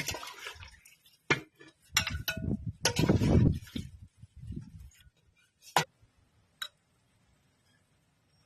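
Kitchen utensils and dishes clinking and knocking: a cluster of sharp knocks and clinks over the first four seconds, then two lighter clicks a little after the middle.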